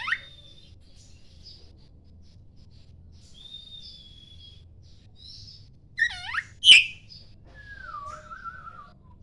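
Oriental magpie-robin (kacer) singing: loud, sweeping whistled phrases about six and seven seconds in, with softer held whistles between them.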